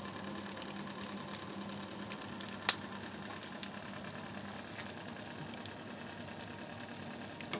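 Wood fire crackling in an air-jacketed fireplace: scattered small cracks over a steady low hum, with one sharp pop about two and a half seconds in.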